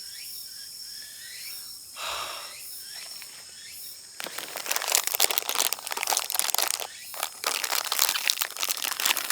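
Paper or plastic packaging being crinkled and crumpled by hand, a dense irregular rustle that starts about four seconds in. Before it, a steady insect trill with a few bird chirps.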